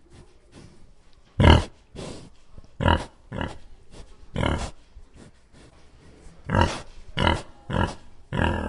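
A pig grunting and snuffling with its snout in loose soil as it roots, in a string of short bursts, the loudest about a second and a half in.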